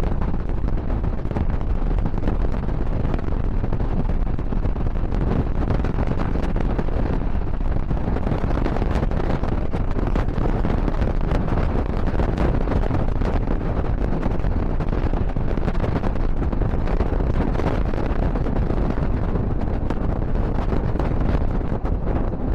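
Steady running noise of a moving passenger train, with wind buffeting the microphone.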